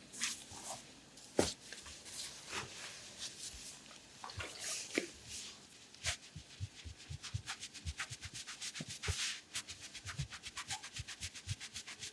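Hands massaging an oiled abdomen: wet squishing and rubbing strokes on the skin, turning about halfway through into a quick, even run of short strokes, several a second.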